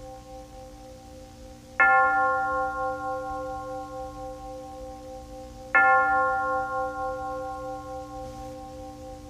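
A bell struck twice, about four seconds apart, each stroke ringing on in several long, slowly fading tones, over the fading ring of an earlier stroke.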